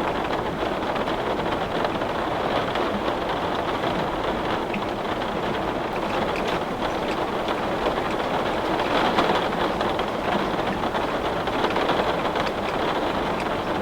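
Heavy rain drumming steadily on window glass as a dense, even patter, swelling slightly about nine seconds in.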